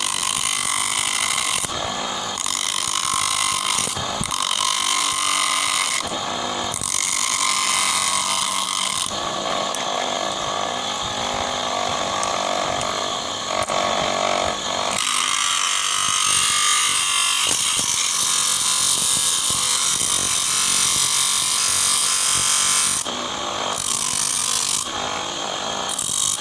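Small grinder cutting through the body of an electric shaving machine: a steady grinding noise broken by a few brief pauses.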